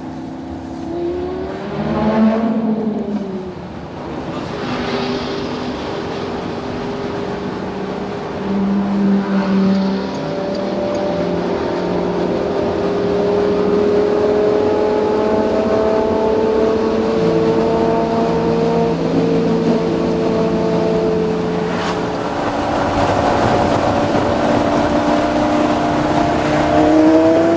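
Lamborghini Gallardo V10 with Quicksilver aftermarket exhausts running under way: a short rev that rises and falls near the start, then a long, slowly rising engine note as the car pulls through a gear, a drop in pitch at a shift-down or lift after about twenty seconds, and the note climbing again near the end.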